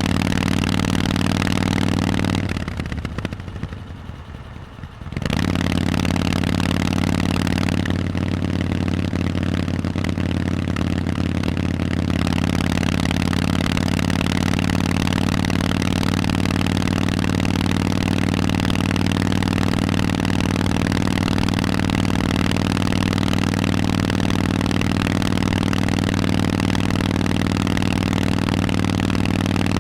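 Harley-Davidson Forty-Eight's air-cooled 1200 cc V-twin running through Vance & Hines aftermarket exhausts at a steady speed. A few seconds in, the exhaust note drops away for about two seconds, then comes straight back.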